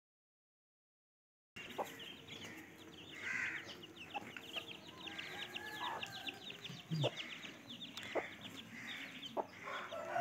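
Birds chattering: a fast run of short high chirps, with a few sharp knocks scattered through. The sound cuts out completely for about the first second and a half.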